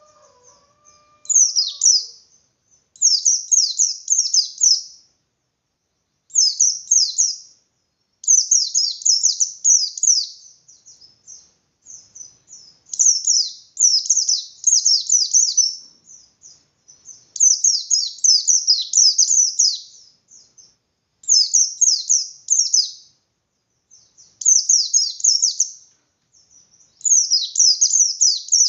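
Pleci (a white-eye, Zosterops) singing its 'ngalas' song. The song comes in repeated phrases of rapid, high, downward-sweeping chirps, each lasting a second or two, with short pauses between.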